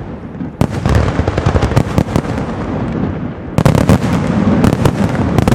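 Castillo aerial fireworks: shells bursting in quick succession with sharp bangs and crackling over a continuous rumble. A dense volley of bangs comes about three and a half seconds in.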